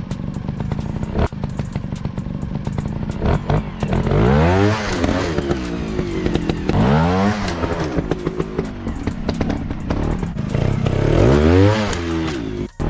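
Small single-cylinder dirt bike engine running off-road and blipped hard about three times, each rev rising and falling in pitch, with a sudden short drop near the end.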